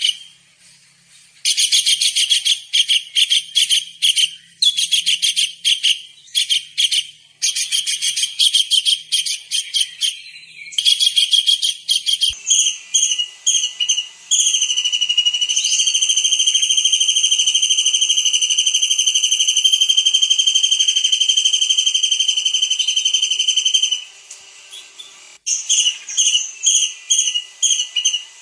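Kingfisher (tengkek udang) calling in rapid, high-pitched trills. Short bursts of fast repeated notes come first; then, about halfway through, one long unbroken trill holds for about ten seconds; then short bursts return.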